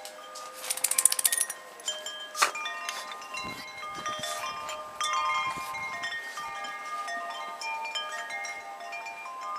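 Wind chimes ringing in the wind, many overlapping notes sustaining and fading. About a second in comes a quick rattle of strikes, and a single sharp knock a little later.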